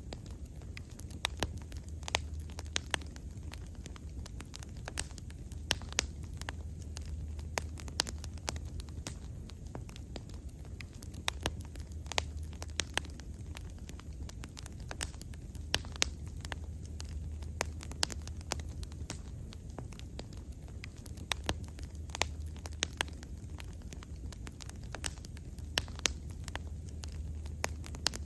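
Wood fire burning: sharp, irregular crackles and pops of burning wood over a steady low rumble of the flames.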